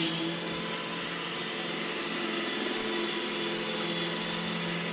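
iRobot Roomba E6 robot vacuum running, a steady motor hum.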